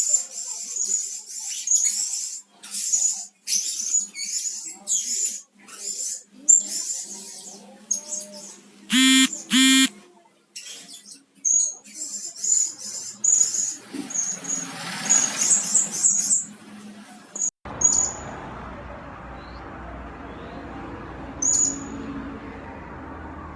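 Blue-crowned hanging parrots calling: quick series of short, high, thin chirps. About nine seconds in come two loud, harsher calls. Near the end, after a change of recording, only a couple of chirps sound over steady background hiss.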